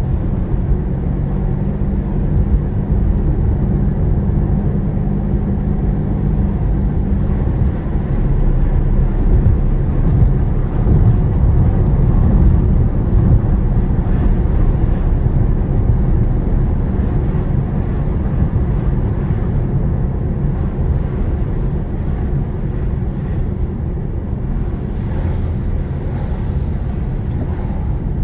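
A car driving, heard from inside the cabin: a steady low engine hum for the first several seconds gives way to a broader low road and tyre rumble for the rest.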